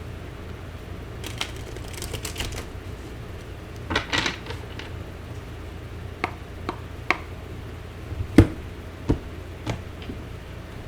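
Deck of tarot cards being shuffled, with a quick run of light clicking, then single cards snapped or tapped down one at a time as separate sharp taps, the loudest about eight seconds in.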